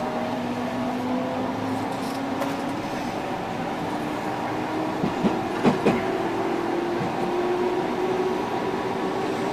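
Electric train running, heard from inside the carriage: steady rolling noise with a low whine that slowly rises in pitch as it picks up speed. A little past halfway come a quick run of four knocks from the wheels over rail joints.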